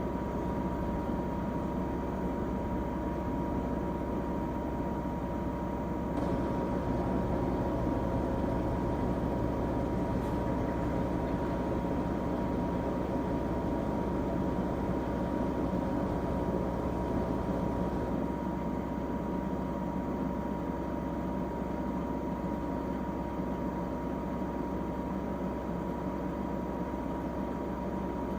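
LG Tromm WD-CR101C front-loading drum washing machine running mid-cycle on its quick wash: a steady motor hum with a constant high whine over it. It gets a little louder about six seconds in and eases back around eighteen seconds.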